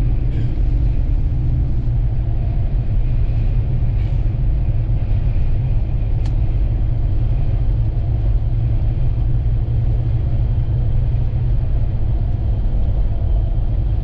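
Steady low rumble inside a moving vehicle's cabin: engine and road noise while driving on the highway. A single short high tick about six seconds in.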